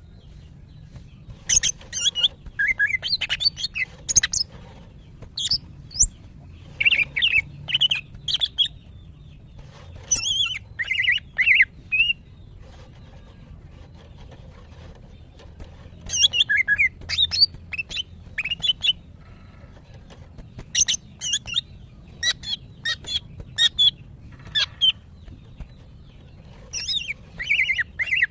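Female greater green leafbird (cucak ijo) calling in breeding condition, a call kept birds use to draw out males: runs of quick chirps and short whistled notes, with a few seconds' pause about halfway through and another near the end.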